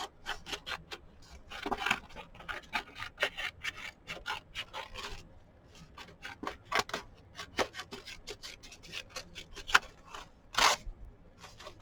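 Scissors cutting paper: a run of short, irregular snips, several a second, with one louder snip near the end.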